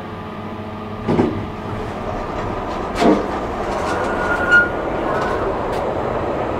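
Train rumbling along the platform tracks, slowly growing louder, with three sharp knocks about one, three and four and a half seconds in.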